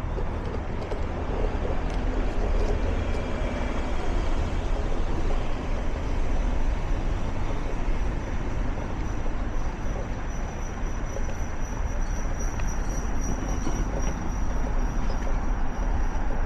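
Steady rumble of a passing vehicle, with a thin high whine that grows stronger in the second half.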